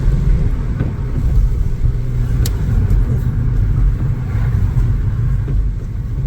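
Steady low road and engine rumble inside a moving car, with a single sharp click about two and a half seconds in.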